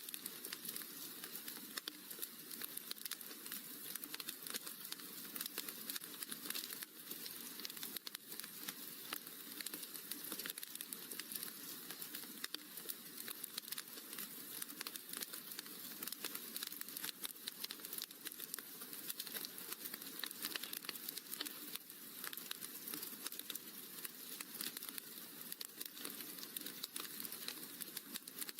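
Wood fire crackling steadily: a dense, even run of many small crackles and pops.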